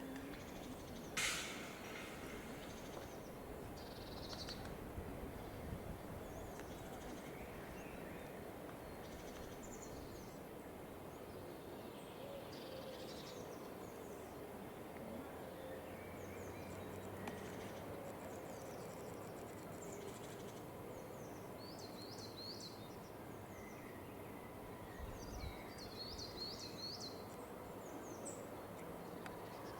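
Quiet outdoor ambience with a steady low background hum and small birds singing in short, quick runs of high chirps, clearest near the end. One brief sharp sound comes about a second in.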